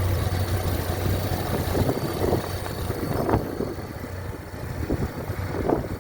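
1978 Land Rover 88-inch engine idling steadily, its low hum fading a few seconds in.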